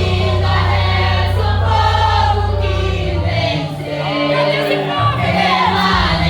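A vocal group singing a gospel worship song together in chorus over low sustained instrumental notes, which shift to a new note about halfway through.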